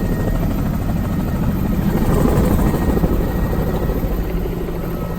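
Helicopter rotor and engine running, heard from inside the cabin: a loud, steady drone strongest in the low end, with no break.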